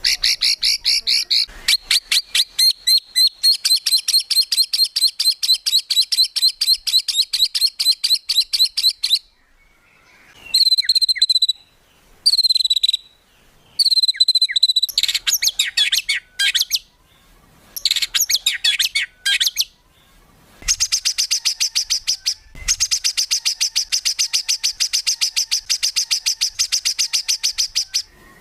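Songbird song from a bird-training compilation: long, fast trills of sharply repeated high notes, broken near the middle by a few short whistled notes, then another long fast trill near the end.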